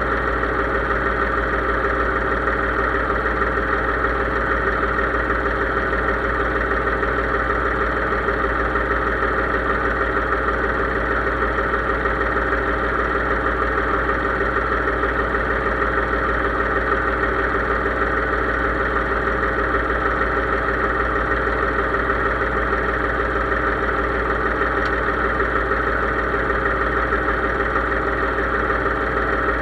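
Case IH 3220 tractor engine running at a steady speed, an unchanging drone with no revving.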